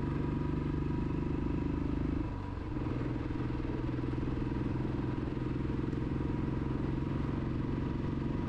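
Motorcycle engine running steadily under way. About two seconds in, the engine note dips briefly and settles at a lower pitch.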